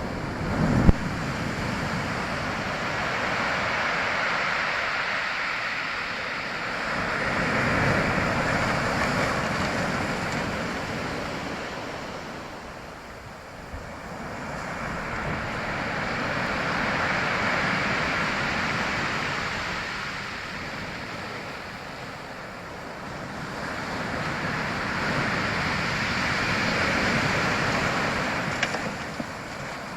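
Waves washing in and receding, a rushing noise that swells and fades roughly every nine seconds, with a brief low thump about a second in.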